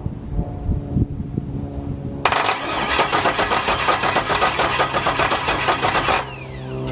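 Chevy Nova engine being cranked over on its starter without firing, for a compression test: an even, rapid rhythm that starts about two seconds in, runs for about four seconds and stops abruptly.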